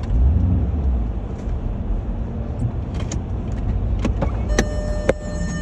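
Porsche Cayenne's engine pulling under load with a low rumble, heaviest in the first second, as the SUV tugs a fallen tree on a kinetic rope. In the second half come a few sharp clicks, then a steady tone over the last second.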